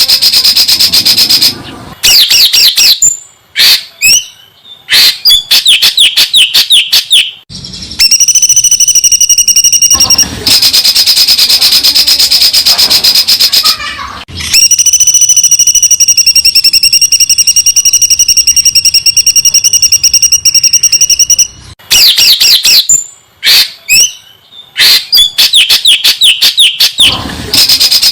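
Songbird singing fast, high 'tembakan' phrases: bursts of rapid-fire repeated notes alternating with long, even trills held for several seconds.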